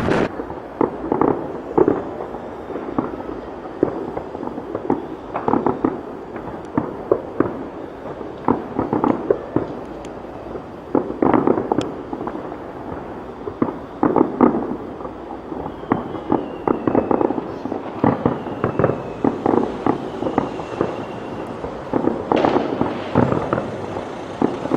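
Fireworks going off in quick irregular clusters of bangs and crackles. A few faint falling whistles come through midway.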